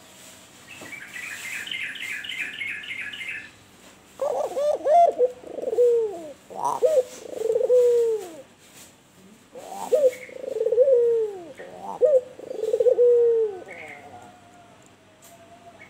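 Albino puter dove cooing: two rolling coo phrases, each made of several short rising-and-falling notes and ending in a longer falling coo. A few seconds earlier comes a brief, rapid, high-pitched chirping trill.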